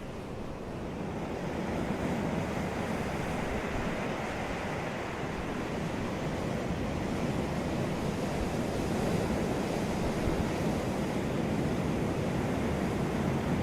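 Ocean surf washing on a beach: a steady rush of breaking waves that swells a little about a second and a half in.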